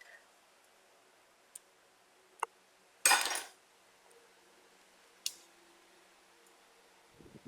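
A few sharp metallic clicks and, about three seconds in, a brief loud metallic clatter, from hand tools and metal parts being handled.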